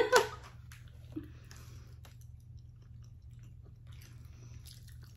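Soft, faint chewing of gummy hot-dog candy, with small mouth and bite sounds.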